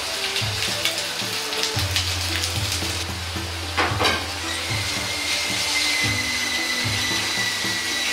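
Oil sizzling steadily in a wok as cut sausages and then hamburger patties fry, with a sharp knock just before four seconds in, over background music.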